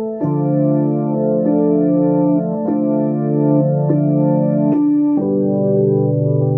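Sustained organ-tone chords on a keyboard, each held and then changed about every second and a quarter.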